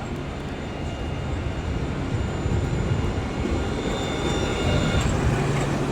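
Nottingham tram pulling in to the stop: a steady low rumble that grows louder, with a high electric whine from about a second in that fades out near the end.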